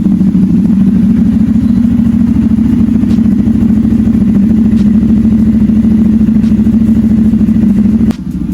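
CFMoto 450SR parallel-twin engine idling steadily through an SC-Project aftermarket exhaust, shortly after a cold start, with a loud, even, pulsing exhaust note. About eight seconds in, the sound drops suddenly in level.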